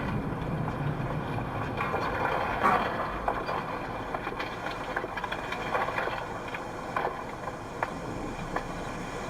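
Car cabin noise while driving: steady road and engine noise, with a few faint ticks.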